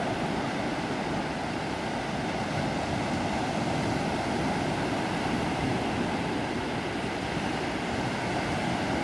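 Sea waves breaking on the shore: a steady, rushing wash of surf with no single wave standing out.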